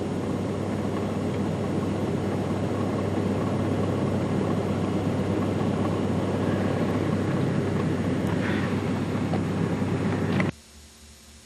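A vehicle driving through floodwater: a steady rumble of engine and water that cuts off suddenly near the end.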